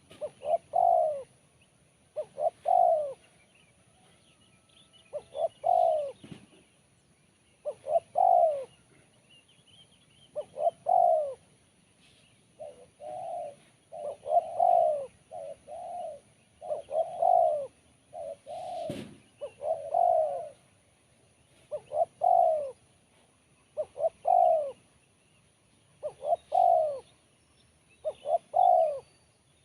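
A spotted dove (tekukur) cooing over and over, one short phrase about every two seconds, with the phrases nearly running together around the middle; the owner calls this bird's voice crisp and sharp. A short sharp knock is heard about two-thirds of the way through.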